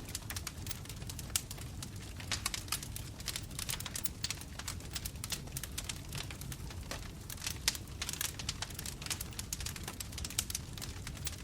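Bonfire burning: burning wood crackling with many irregular sharp pops over a low steady rumble of the flames, one pop standing out a little past halfway.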